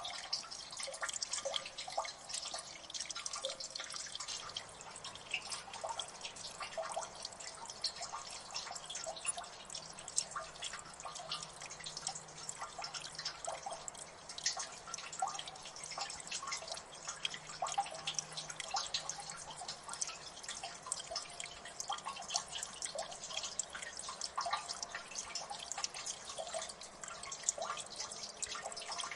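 Water dripping in a gully: many quick, irregular drips plinking into water, several a second, with no pause.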